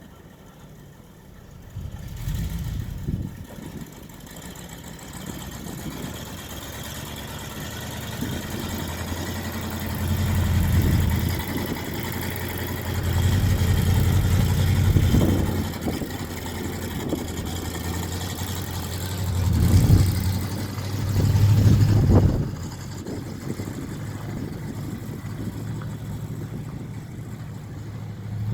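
Grain truck engine pulling away, its low steady note swelling louder several times as it works up through the gears.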